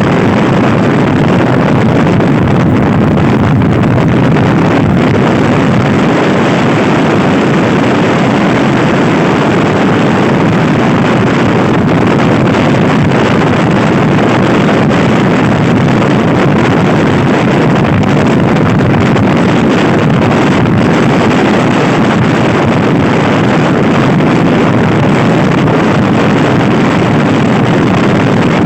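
Loud, steady wind rushing over the microphone of a Honda Scoopy i scooter ridden at speed.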